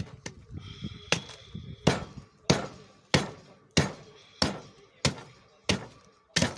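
An axe chopping a rowan burl block into a rough blank, with about nine sharp strikes at an even rhythm, roughly three every two seconds.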